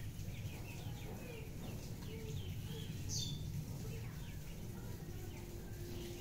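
Small birds chirping, short calls scattered throughout, one sharper high chirp about three seconds in, over a steady low rumble.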